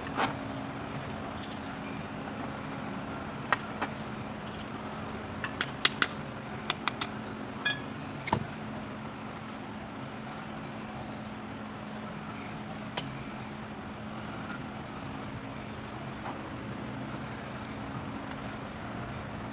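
Sharp metallic clicks and clinks of small metal parts and tools being handled, most of them in a cluster from about five to eight seconds in, over a steady low hum.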